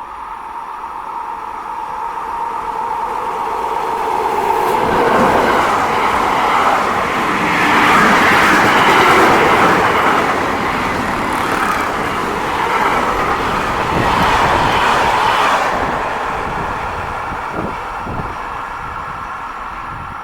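A train passing through the station without stopping. Its noise swells to a peak about eight to ten seconds in, then fades away, with a few wheel knocks near the end.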